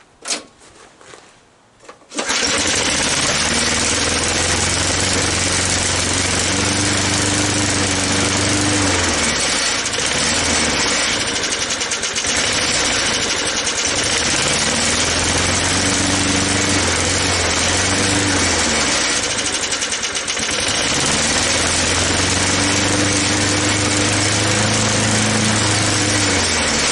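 A Snapper mower's small gasoline engine fires up about two seconds in and runs loudly, its speed rising and falling about three times.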